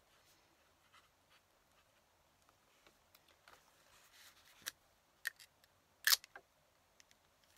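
Faint scratching, then a few sharp clicks and taps of small hard objects being handled on a desk, the loudest about six seconds in.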